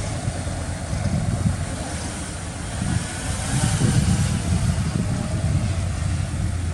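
Diesel engine of heavy earthmoving equipment running with a steady low rumble, growing louder about halfway through.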